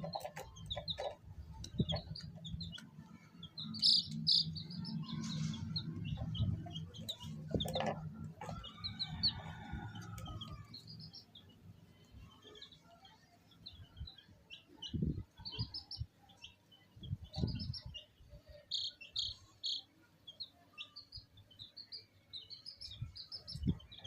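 Baby chicks peeping: many short, high cheeps in quick runs throughout. A low rumble sits under them for roughly the first ten seconds, and a few dull thumps come in the second half.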